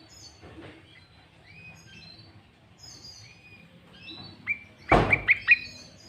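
Sooty-headed bulbul calling with scattered short chirps and whistles. Near the end comes a quick run of loud, sharp notes together with a thump.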